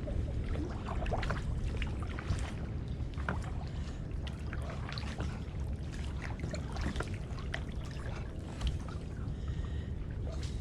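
Kayak paddling: paddle blades dipping and splashing, with water dripping and small knocks, over a steady low rumble.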